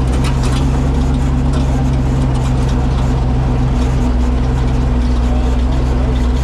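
Off-road race truck's engine running steadily at low revs, heard from inside the open cab, with scattered light knocks and rattles as the truck crawls over rough dirt.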